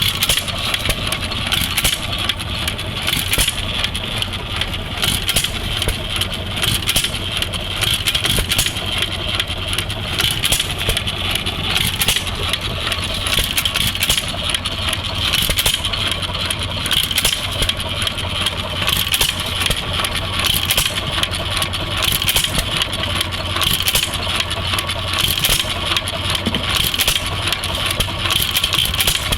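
ARCO hit-and-miss stationary engine running. It gives sharp firing strokes at uneven intervals as it fires and coasts between bangs.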